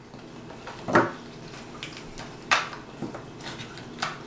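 Four short, sharp clicks and knocks of small hard objects being handled on a tabletop, the loudest about a second in.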